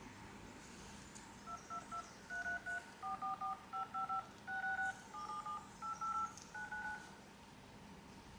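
Phone dial-pad touch tones: a quick, uneven series of about fifteen short dual-tone beeps that change pitch from key to key as digits are tapped in.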